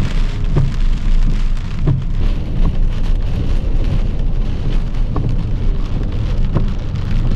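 Rain beating on a car's roof and windshield, heard from inside the cabin over the steady low rumble of the moving car, with scattered knocks.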